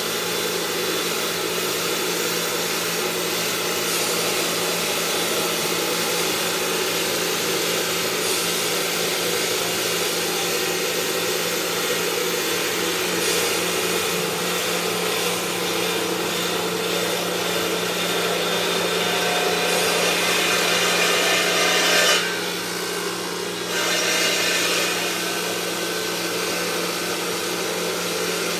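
Stone-working machinery cutting or grinding marble: a steady, loud abrasive noise over a constant low hum. The noise dips for a second or two about 22 seconds in, then resumes.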